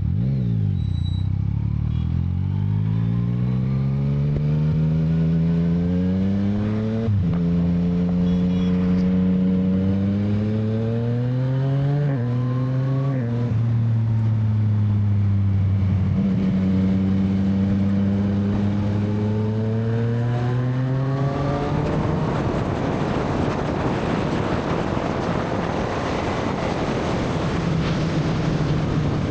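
Yamaha MT-09's inline three-cylinder engine accelerating up through the gears: its pitch climbs, drops sharply at gear changes about seven and twelve seconds in, then holds fairly steady. In the last third, wind noise on the microphone rises and drowns out the engine.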